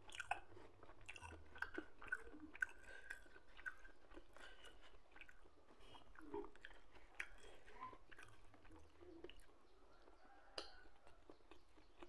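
Faint, close-miked chewing of a person eating rice and pecel by hand, with many small, irregular mouth clicks.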